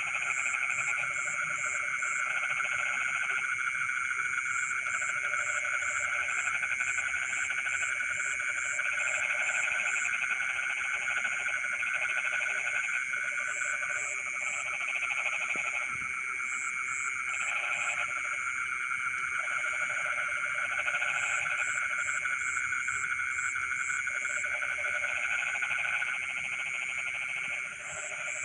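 Dense chorus of many frogs calling together, a steady layered trilling. Lower pulsing calls come and go in spells of a few seconds, and runs of quick high pips, two or three a second, break in and out over it.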